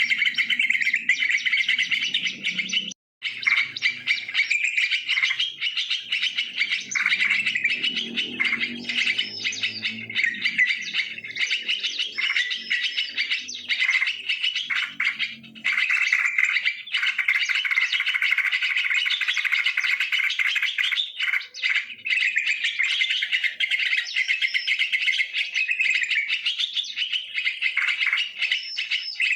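Yellow-vented bulbuls (trucukan) chattering and calling continuously, several birds overlapping in a dense, busy chorus of bright chirps. The sound cuts out briefly about three seconds in.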